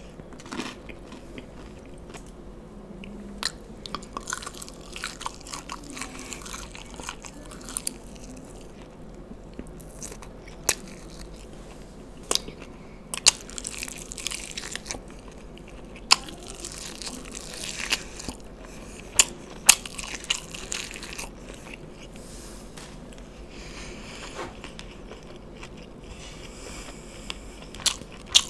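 Close-up chewing and biting of fried chicken lollipops, with many sharp crunching bites scattered through, most of them clustered in the middle.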